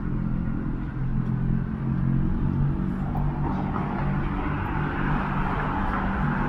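City street traffic: a vehicle engine humming low and steady, with tyre noise building about three seconds in as cars move past.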